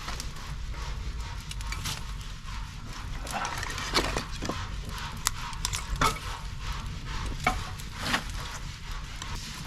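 Wood fire of split firewood burning, crackling and hissing, with several sharp pops scattered through the middle, over a steady low rumble.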